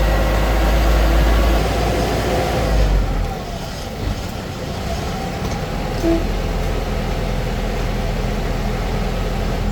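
Heavy truck engine running steadily with a low rumble, which eases off for a few seconds midway and then comes back.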